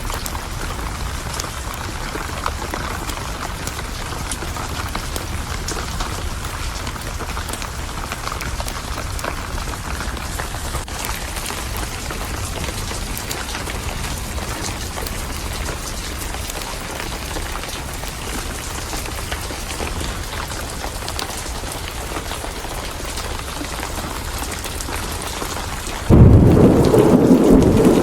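Steady heavy rain throughout. Near the end, thunder breaks in suddenly with a loud, deep rumble.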